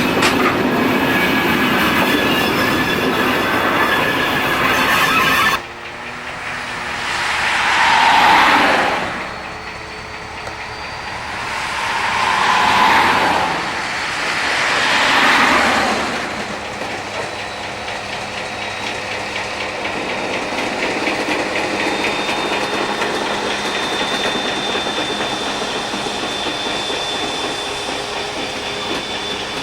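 V100 diesel-hydraulic shunting locomotive running with freight wagons rolling on the track, wheels clattering and squealing. The sound changes abruptly about five seconds in, then rises and falls three times before settling into a steadier rumble.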